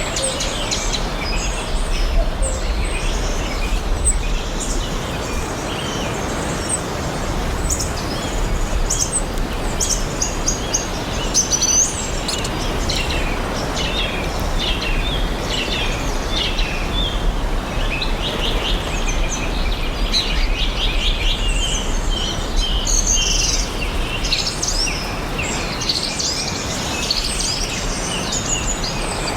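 Several songbirds chirping and singing, with many short chirps and trills overlapping throughout, over a steady hiss of outdoor background noise with a low rumble.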